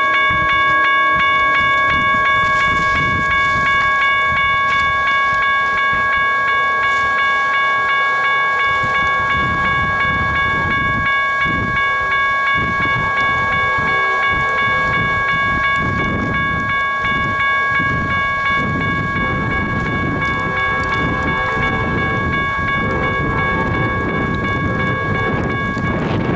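Railroad level-crossing warning bell ringing steadily and evenly, with a low rumble that grows in the second half as a train draws near.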